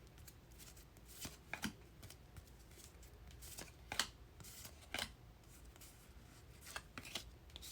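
Football trading cards being flipped through by hand, a faint irregular series of short card-on-card slides and flicks as each card is moved to the back of the stack.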